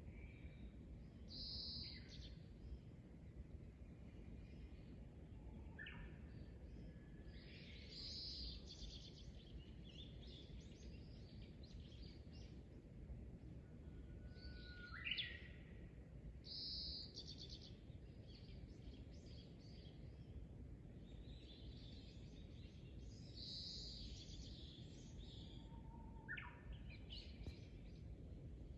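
Birds calling and singing over a faint low background hum. About every ten seconds one song comes: a held whistle that breaks into a quick rising phrase, among shorter high chirps.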